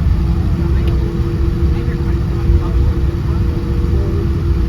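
Steady cabin noise inside a Boeing 787-10: a dense low rumble from the running engines and air systems, with a steady hum over it.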